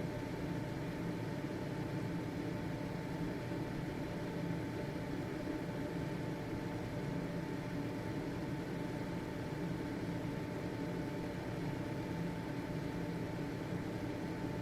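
Household ventilation fan running steadily: a constant motor hum with a faint steady whine and an even whir of moving air.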